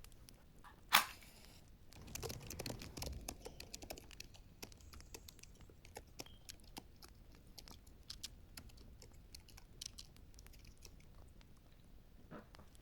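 Wood fire in a fireplace crackling and popping in irregular sharp snaps. There is one loud pop about a second in and a denser run of crackling from about two to four seconds.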